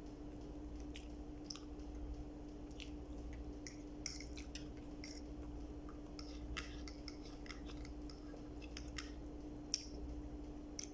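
Close-up eating sounds: a person chewing food, with scattered crisp crunches and wet mouth clicks at an irregular pace, over a steady low hum.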